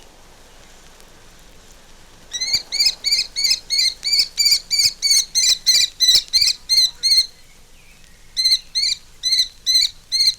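Kestrel's shrill chatter: a rapid run of sharp, evenly spaced calls, about three or four a second, starting a couple of seconds in, breaking off for about a second, then starting again.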